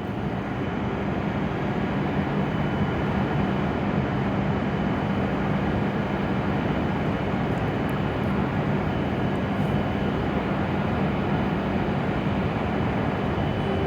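Hokuriku Shinkansen train at the platform, a steady rumble with a low hum that fades out about ten seconds in.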